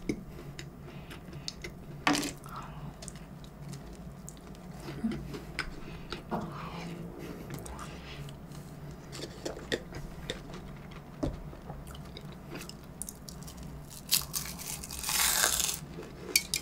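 Close-up eating sounds of a person chewing and biting into a flaky egg tart, with small crunches and mouth clicks. There is a sharper click about two seconds in and a louder brief burst of noise near the end.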